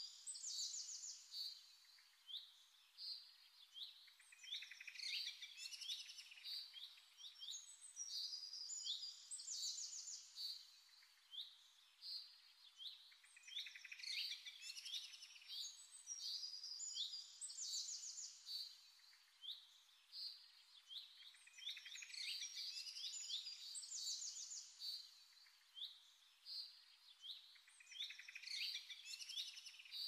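Birdsong: many short, quick chirps, the same passage of calls coming round again about every eight seconds.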